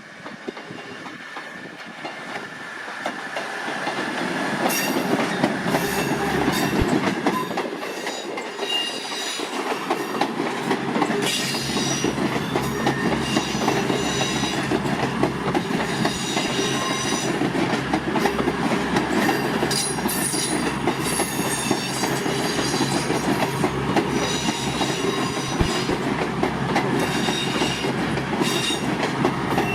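Train running past on the rails: wheels clattering over rail joints, building up over the first few seconds and then holding steady and loud, with brief high-pitched squeals from the wheels now and then.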